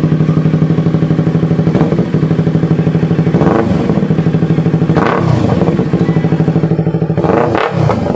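Yamaha R3 parallel-twin motorcycle engine running through an aftermarket M4 exhaust pipe, idling with a fast, even pulse and revved up and back down in several quick throttle blips.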